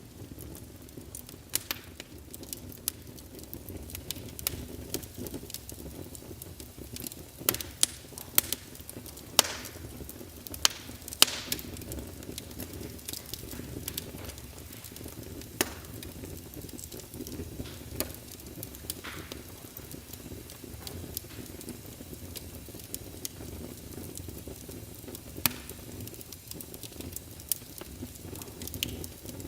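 Wood fire burning in a fireplace: a steady low rumble of flames with irregular sharp crackles and pops, which come thickest and loudest around the middle, and a few brief hisses.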